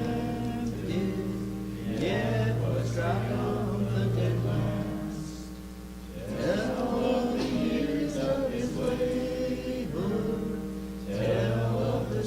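Church congregation singing a hymn together, over sustained low accompanying notes, with a short pause between phrases about five seconds in.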